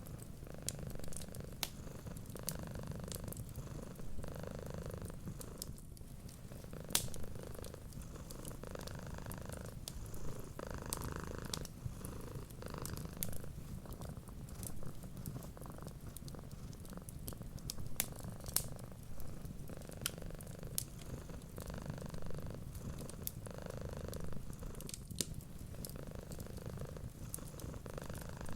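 Domestic cat purring steadily, swelling and easing with each breath every second or two, over scattered sharp crackles of a wood fire.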